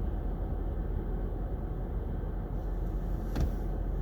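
Steady low rumble inside a car's cabin, the running car heard from the driver's seat, with a single sharp click about three and a half seconds in.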